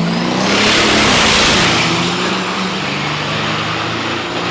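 Turbo-diesel drag racers launching at full throttle: a turbocharger whistle rises sharply in pitch as the engines surge, loudest about a second in, then the engine noise eases off as they run away down the strip.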